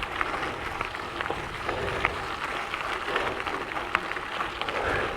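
Gravel bike tyres rolling over a gravel trail: a steady crunching crackle with many small stones clicking and popping under the wheels.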